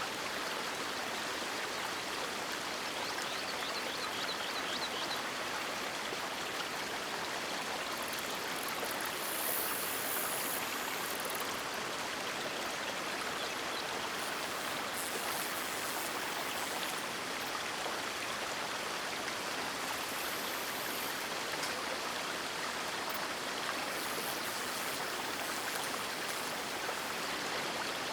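River water rushing steadily over rocks, a continuous even wash of water noise.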